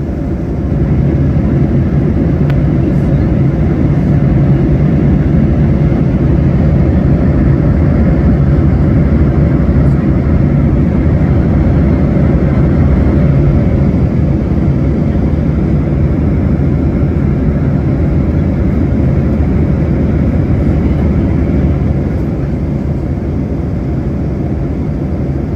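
Steady, loud rumble of a jet airliner's engines and airflow in flight, easing a little about 22 seconds in.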